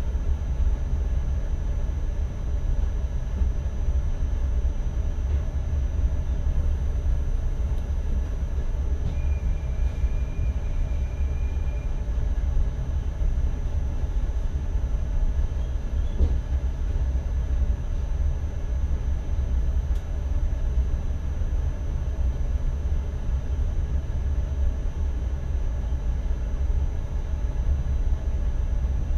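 Cab of an NS ICM electric multiple unit running along the line: a steady low rumble from the running gear with a thin, constant high whine. A short higher tone sounds about a third of the way in, and a single click comes around the middle.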